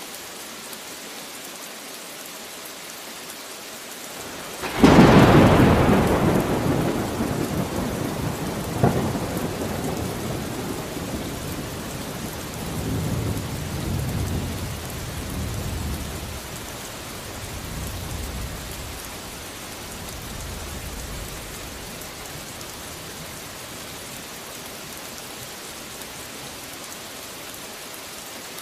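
Steady rain throughout, with a sudden loud thunderclap about five seconds in and a second sharp crack a few seconds later. Low rumbling follows, rolling and fading away over the next dozen seconds.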